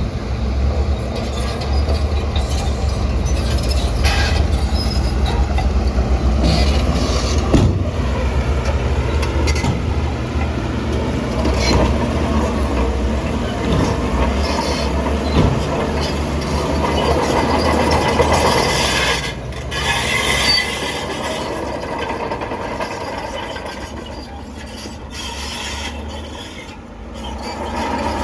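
Shantui crawler bulldozer working: diesel engine running hard while the steel tracks clank and squeal. The deep engine note falls away about three quarters of the way through, then the noise picks up again near the end.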